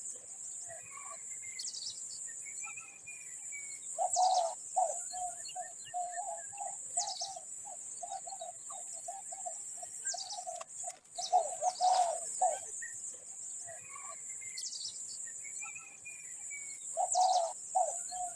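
Birds calling: short high chirps that sweep down in pitch every second or two over a steady high hiss, with a run of rapid low pulsing notes that starts about four seconds in, stops after about nine seconds and comes back near the end.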